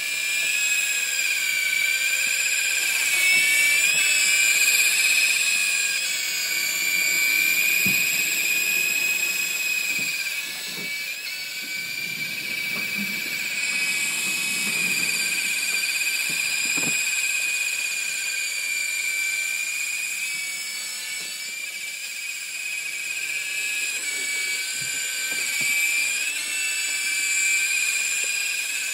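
The W908-1 RC helicopter's 380-size electric motor and rotors running with a steady high whine, the pitch wavering slightly now and then. A few faint low thumps sound under it.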